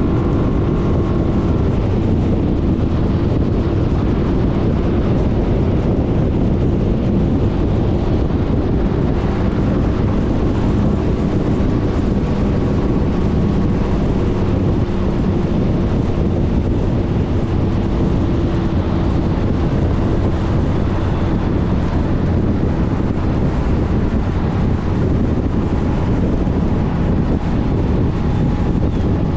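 Steady wind rush on the microphone at riding speed, over the drone of a 2020 Suzuki Burgman 400 scooter's single-cylinder engine and road noise.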